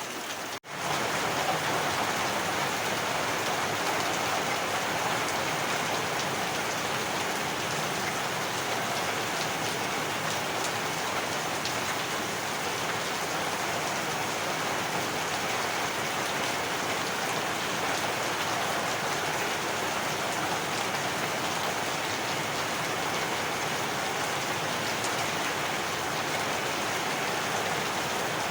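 Heavy rain falling steadily. The sound cuts out for a split second just after the start, then comes back a little louder.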